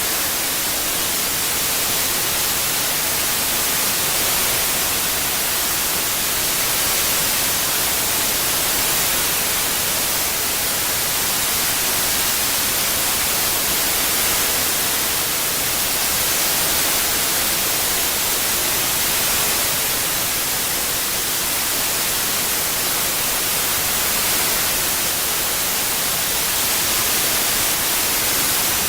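Continuous synthetic white noise, an even hiss across all pitches that is brightest in the highs, with slow gentle swells in loudness every few seconds from its '8D' panning.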